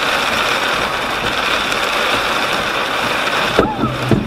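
Heavy rain beating on a car's windshield and roof, heard from inside the cabin. Near the end, a couple of sharp cracks as lightning strikes close by.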